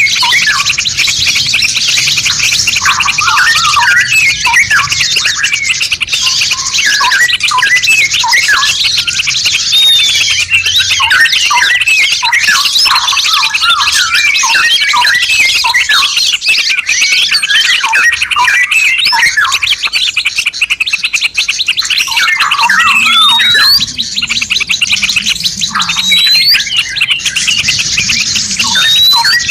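Several songbirds singing at once: a dense, continuous tangle of rapid chirps, trills and short rising whistled notes.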